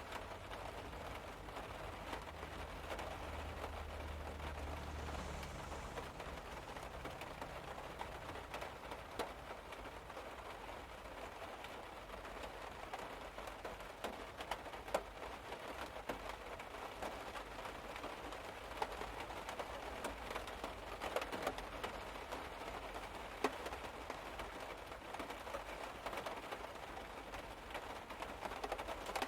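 Steady rain falling on a car roof, heard from inside the car, with scattered louder drop hits throughout.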